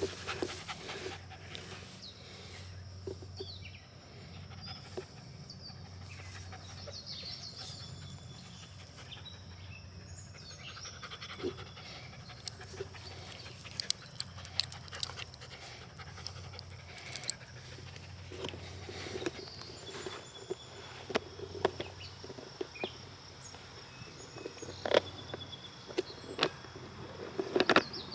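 Mini Australian Shepherd panting, heard up close, with scattered sharp clicks and knocks that come more often in the second half.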